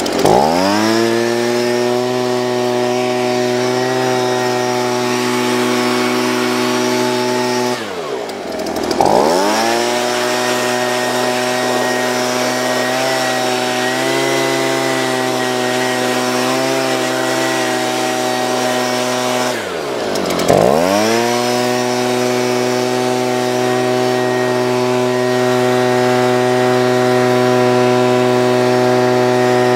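Leaf blower running at full speed, blowing dust out of a car interior. It winds up at the start, then twice, about 8 and 20 seconds in, drops briefly in speed and winds straight back up.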